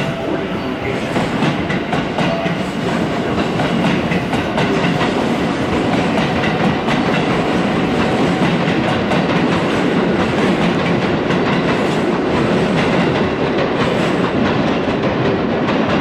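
Electric train running along the track, its wheels clattering over the rail joints in a steady stream of clicks.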